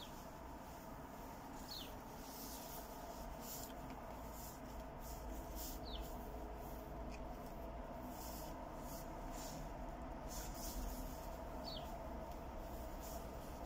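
Quiet outdoor ambience with a steady low hum, and a small bird giving a few short, high, falling chirps several seconds apart.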